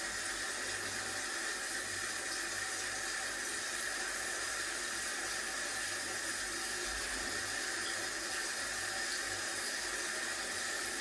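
Water spraying steadily, an even hiss with no breaks.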